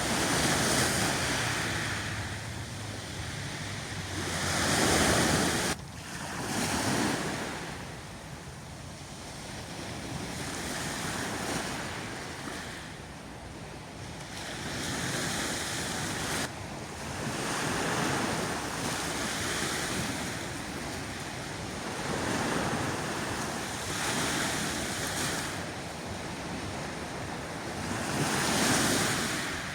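Black Sea waves breaking and washing up the shore. The surf swells and falls back every few seconds.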